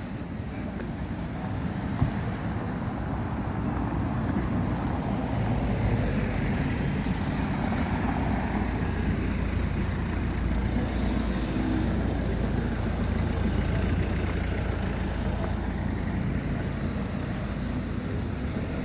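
Steady low rumble of road vehicle noise, slowly swelling over the first few seconds, with a single sharp click about two seconds in.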